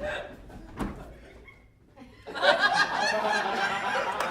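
Audience laughing. The laughter fades to a brief lull about halfway through, then swells up loudly again.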